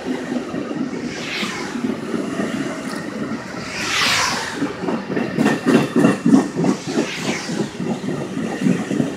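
Train passing along the track, a rushing hiss that swells every few seconds, with a fast run of wheels clicking and thudding over rail joints about five seconds in.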